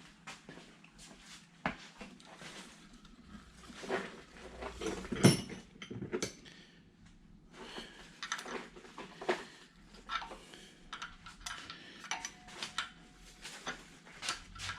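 Loose metal hardware clinking and clattering as someone rummages through bolts and nuts looking for a part, with scattered sharp clicks and one louder clank about five seconds in.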